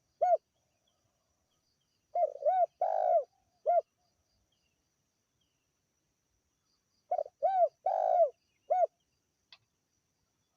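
Spotted dove (tekukur) cooing in repeated phrases, each made of two short coos, a longer coo and a short closing note, about five seconds apart. A single closing coo sounds right at the start.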